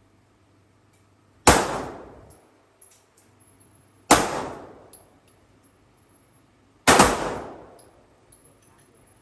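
Three single gunshots about two and a half seconds apart, each a sharp crack followed by an echoing tail of about a second, with faint clicks between them.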